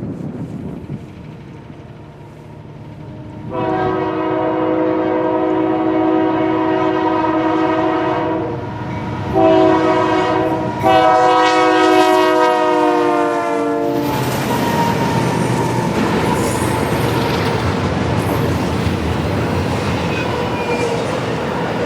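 Freight train's diesel locomotive horn sounding three blasts, a long one, a short one and another long one, as the train approaches. The train then passes close by with a steady rumble of wheels clacking over the rail joints.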